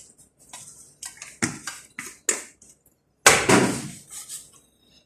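Kitchen clatter of utensils and cookware: a quick series of clinks and knocks, with one loud ringing clang a little past three seconds in.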